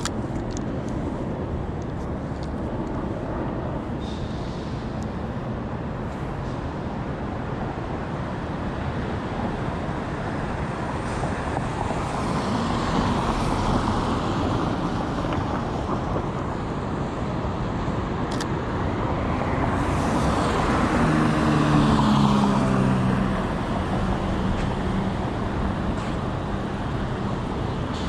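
City street traffic: a steady rumble of vehicles, swelling as cars pass around the middle and again about two-thirds through, when a passing vehicle adds a low hum.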